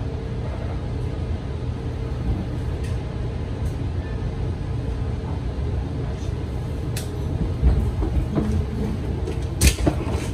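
Commuter train's steady interior rumble and hum, heard at a closed door as it rolls slowly into a station. A sharp click comes about seven seconds in and a louder one near the end.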